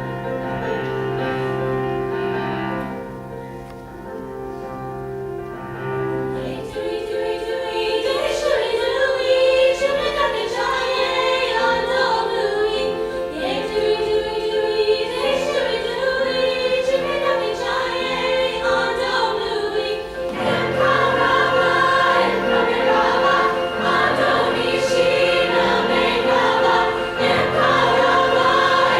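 Women's choir singing with piano accompaniment. The piano plays alone at first, and the voices come in about six seconds in, getting fuller and louder about two-thirds of the way through.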